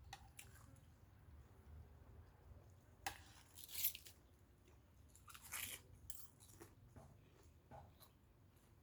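A person chewing and crunching on fresh raw shrimp, heard faintly. Crisp bites come about three seconds in and again around five and a half seconds, with quieter chewing between.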